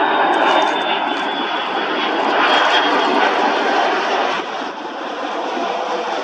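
Jet airliner engines running loud and steady, a rushing noise with a thin high whine over the first half that falls slightly in pitch.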